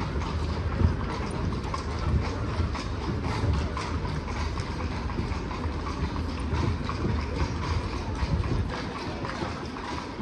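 Horse's hooves clip-clopping at a walk on the street, with the carriage's wheels rumbling steadily underneath.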